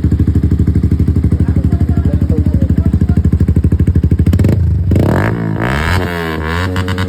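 Yamaha R15M's single-cylinder engine through an aftermarket Akrapovič exhaust, idling with a loud, even, fast pulsing beat; from about four and a half seconds in the throttle is blipped and the note rises and falls several times.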